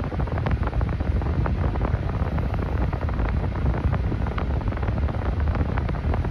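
Wind buffeting the phone's microphone, a steady low rumble with scattered crackles, as in a moving vehicle.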